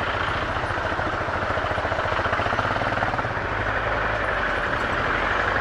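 Royal Enfield Scram 411's single-cylinder engine idling steadily with an even, rapid beat.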